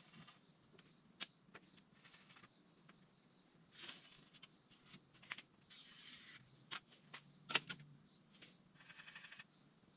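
Near silence with scattered faint clicks, knocks and short scrapes, like tools and sheet metal being handled. The loudest knock comes about three-quarters of the way through, and a quick run of light ticks follows near the end.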